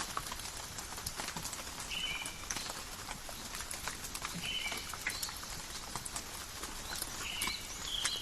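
Steady rain falling in a forest, with many individual drops pattering and ticking. A bird gives a few short two-part calls, about two seconds in, at about four and a half seconds, and twice near the end.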